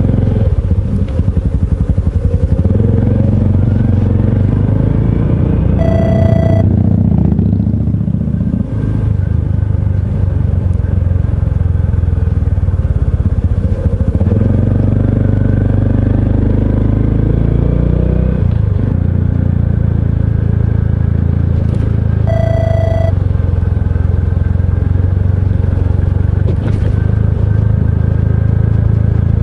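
Honda CT125 Hunter Cub's air-cooled single-cylinder four-stroke engine under way, pitch rising as it accelerates and dropping at gear changes about 8 and 18 seconds in. A short electronic beep sounds twice, at about 6 and 22 seconds.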